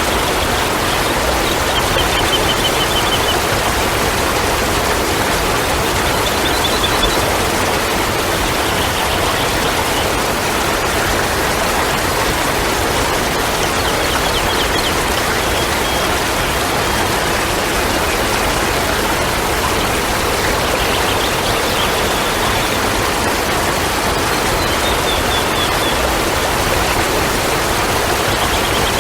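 Steady, loud rush of running water, with a short high trilled chirp that comes back every few seconds.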